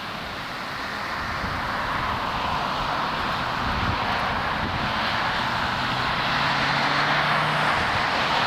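Jet airliner on landing approach, its engine noise a steady roar growing gradually louder as it comes nearer.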